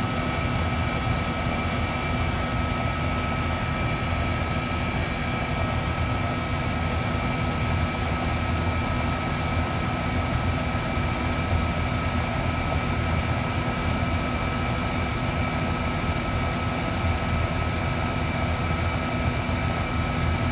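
Trane XE1000 R22 heat pump outdoor unit running in cooling mode, compressor and condenser fan giving a steady drone with a low hum and a few constant high tones, while it is being charged with refrigerant.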